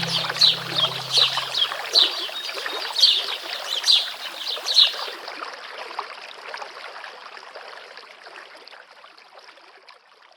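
Small stream babbling steadily, with a bird giving a repeated falling high chirp about every 0.7 s for the first five seconds. Low music notes end about two seconds in, and the water fades out gradually to nothing by the end.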